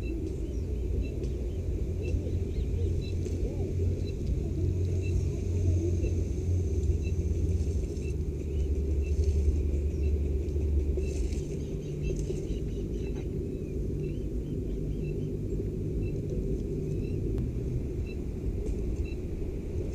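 Steady low rumble on the microphone, with a faint high chirp repeating about once a second.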